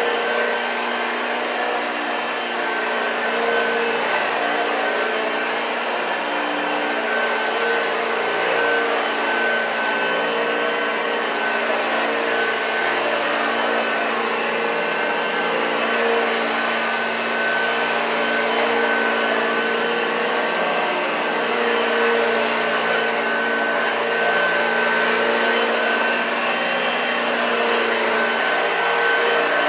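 1986 Hoover Junior U1206 upright vacuum cleaner running steadily, a constant motor hum and whine over the rush of air.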